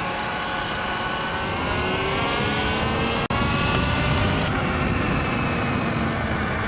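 Electric dirt bike riding: its motor whine, several pitches together, rises as it speeds up, over a heavy low rumble. The sound drops out for an instant about three seconds in.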